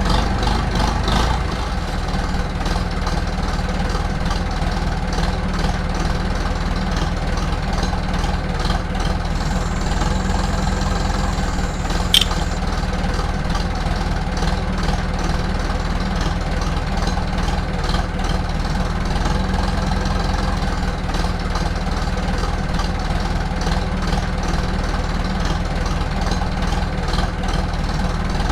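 Steady engine-like running, idling evenly with no change in speed, with one short sharp click about twelve seconds in.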